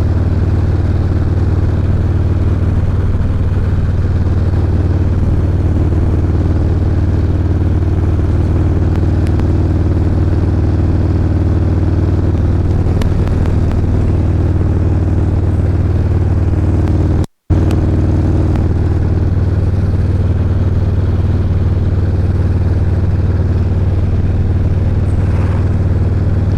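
Motorcycle cruising at a steady highway speed: the engine runs evenly under a constant rush of wind. The sound cuts out completely for a moment about two-thirds of the way through.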